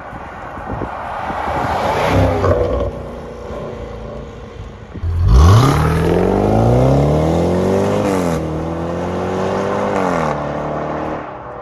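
Range Rover SVR's supercharged V8 through a Supersprint exhaust with non-resonated midpipes, accelerating hard: the engine note climbs steeply in pitch, drops briefly at an upshift about 8 seconds in, climbs again, then falls away as it lifts off. A quieter rise and fall of engine noise comes before the hard pull.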